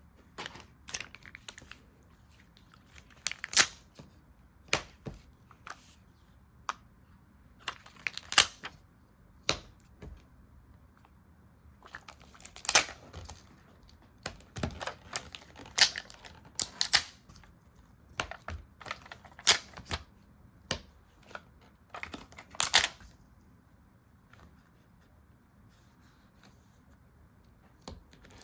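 Stickers and paper being handled for journaling: scattered short crinkles, peels and light taps with quiet gaps between them, and a longer quiet spell near the end.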